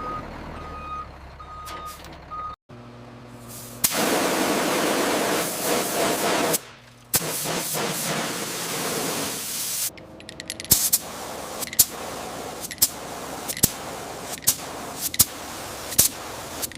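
Heavy crane machinery during a lift: a backup beeper sounds four times over a low engine hum, then a loud hissing machine noise runs in two stretches with a short break between them. From about two-thirds of the way in come sharp clanks, roughly one a second.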